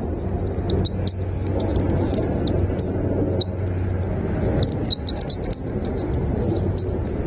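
Short, high bird chirps, scattered and bunching up a little past the middle, over a loud, steady low rumble with a hum.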